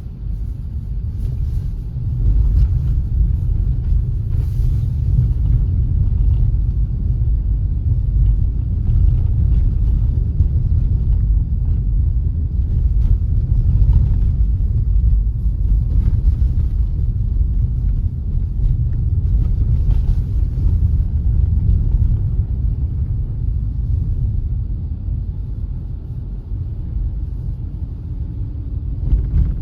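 Steady low rumble of a car on the move: road and engine noise, stepping up in level about two seconds in and then holding steady.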